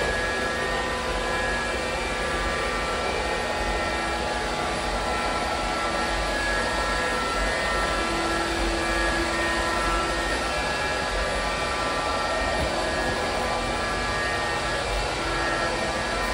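ILIFE robot vacuum running steadily, its suction motor giving an even whirring hum with several faint steady whining tones over it.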